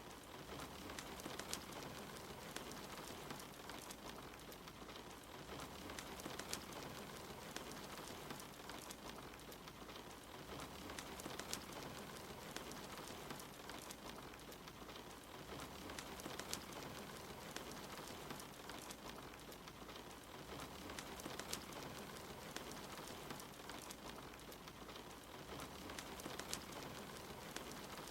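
Soft, steady rain mixed with a wood fire crackling, with scattered sharp pops throughout.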